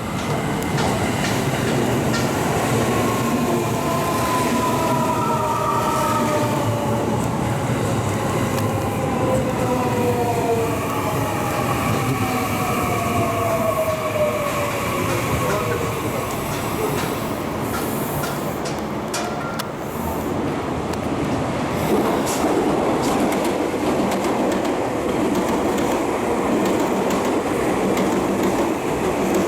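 Electric commuter train running along the platform with wheels clattering over rail joints. Through the first half a motor whine falls slowly in pitch, then dies away, leaving a heavier rumble of wheels on rail.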